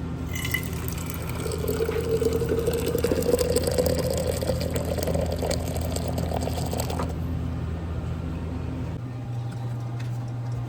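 Liquid pouring steadily into a cup or container, its pitch rising as the container fills, then stopping suddenly about seven seconds in.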